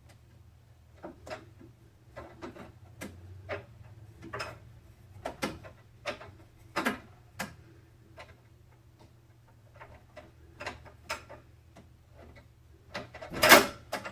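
Irregular clicks and taps of computer parts and small hardware being handled during a PC build, with a louder, longer clatter near the end. A steady low hum runs underneath.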